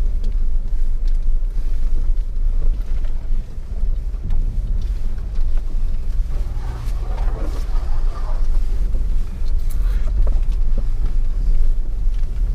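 An off-road 4x4 driving on a rough trail, its engine and drivetrain giving a steady low rumble.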